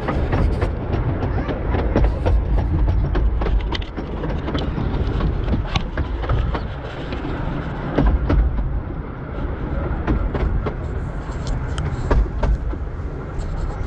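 Narrow-gauge (15-inch gauge) train running along the track: a steady low rumble with irregular clicks and clacks from the wheels and rail joints.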